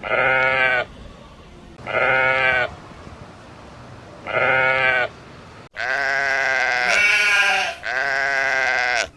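Sheep bleating: three short bleats about two seconds apart, then a run of longer, closer-spaced bleats in the second half.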